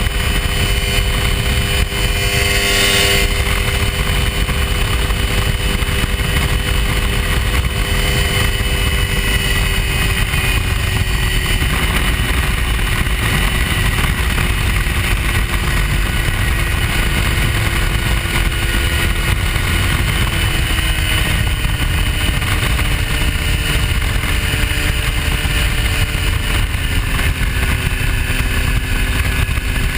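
Hy-Tek Hurricane ultralight's engine droning steadily in flight over heavy wind rush. Its note drops twice, about two-thirds of the way through and again near the end, as the throttle is eased back.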